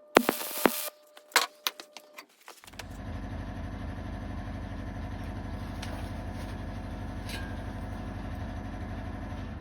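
A few sharp clicks and knocks, then a motor starts up almost three seconds in and runs steadily with a low, rapid pulsing until it stops near the end.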